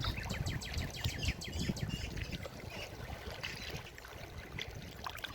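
Forest river water flowing and splashing, with a quick run of high chirps in the first couple of seconds; the sound gradually fades.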